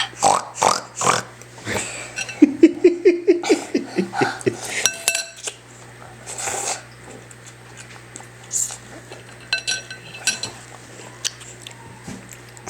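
A child grunting like a pig while eating noodles off a plate: a quick run of rhythmic grunts, about five a second, a couple of seconds in, among smacking eating noises and the clink of a plate and cutlery.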